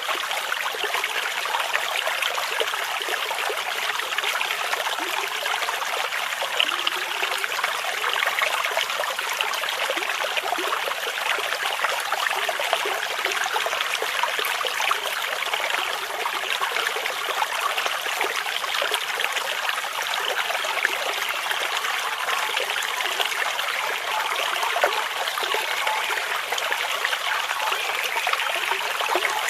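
Small brook flowing over stones, a steady babbling and trickling of water with no pauses.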